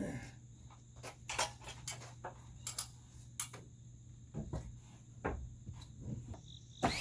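Scattered light clicks and knocks of lumber and hardware being handled, with a power drill starting up right at the very end.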